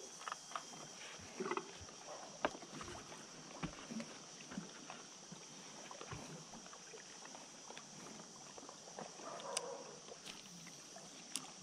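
Faint scattered knocks and light water sounds of a small boat on a river, over a steady high insect drone.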